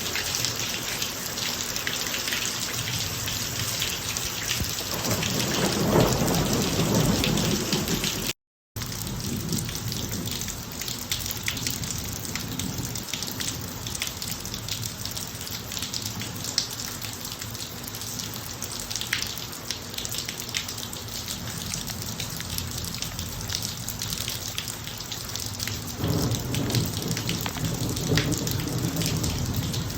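Steady heavy rain falling on a driveway, with two rolls of thunder: one builds about five seconds in and lasts a few seconds, and another starts near the end. The sound drops out completely for a split second a little past the first rumble.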